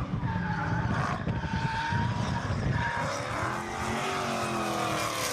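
Widebody Dodge Charger Hellcat's supercharged V8 running hard during a drift, with tyre squeal. Its pitch rises and then falls a little after the halfway point.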